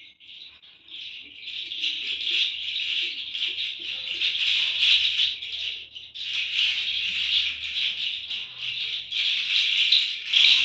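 A hand shaker or rattle used for sound healing, shaken continuously so that it rustles in swelling and easing waves, with a brief dip about six seconds in.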